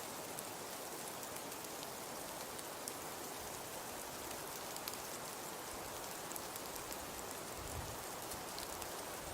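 Wood fire crackling in a fireplace: a steady soft hiss flecked with many small, scattered pops and snaps.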